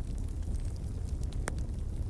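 Wood fire in a fireplace crackling: many small snaps and one sharper pop about three-quarters of the way through, over a low steady rumble.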